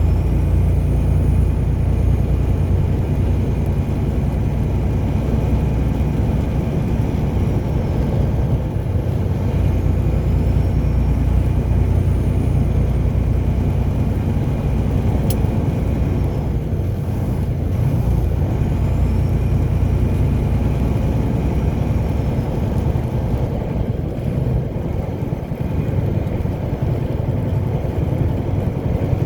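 Car driving at a steady pace: an even, low rumble of road and engine noise. There is one faint tick about halfway through.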